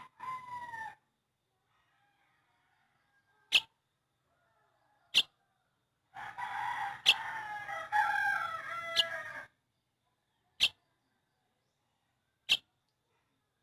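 A pet bird giving single short, sharp chirps about every one and a half to two seconds. About six seconds in, a longer wavering call lasts roughly three seconds.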